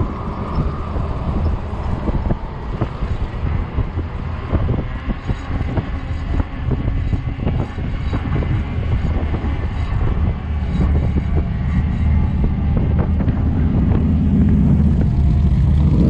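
Strong gusting wind buffeting the microphone of a camera on a moving fat-tire e-bike, a steady low rumble with many short knocks and rattles from the ride over the pavement. A lower drone swells near the end.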